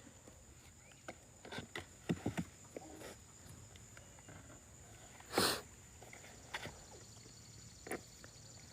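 Faint scattered rustles and soft knocks from pet monkeys moving about on the grass, with one short noisy puff about five and a half seconds in.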